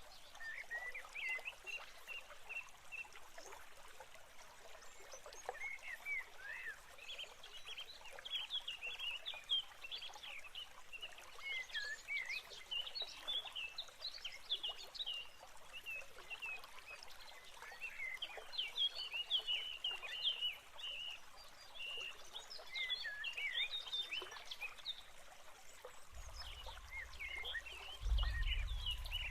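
Birds chirping: many quick, overlapping chirps and short sweeping calls. A low rumble comes in near the end.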